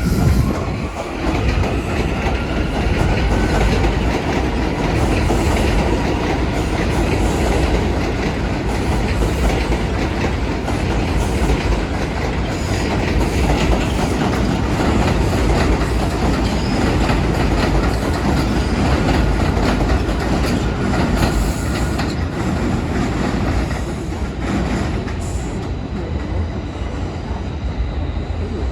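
New York City Subway A train running through the station, a loud steady rumble with wheels clacking over rail joints and a faint wheel squeal.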